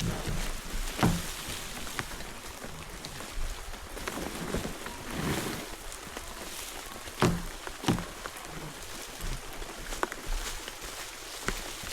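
Steady rain hissing down, with scattered knocks and thuds from gear being handled; the loudest knocks come about a second in and twice around seven to eight seconds in.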